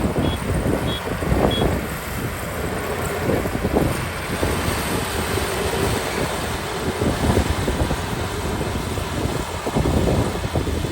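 Kubota ER572 combine harvester running steadily with its 72-horsepower diesel engine and threshing machinery. Its reversing alarm beeps three times in the first couple of seconds and then stops.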